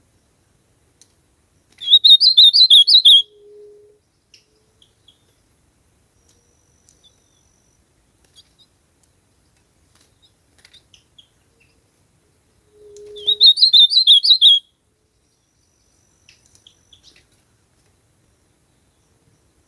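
Ultramarine grosbeak (azulão) singing: two short, quick warbled song phrases about ten seconds apart, each lasting a little over a second.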